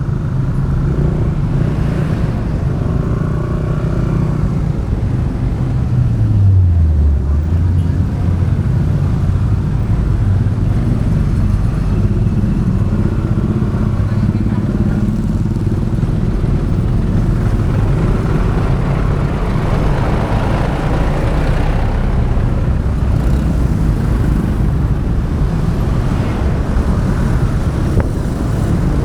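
Motorbike engine running as the bike rides along, recorded from the rider's own bike with a steady rush of road and wind noise. The engine's pitch drops about six seconds in, then picks up again and holds steady.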